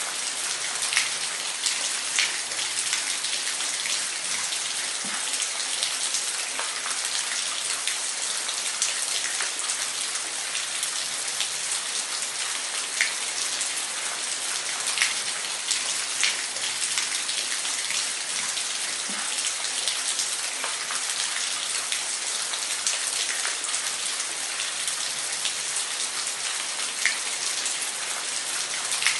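Waterfall: a steady hiss of falling water, with scattered sharp drips and splashes.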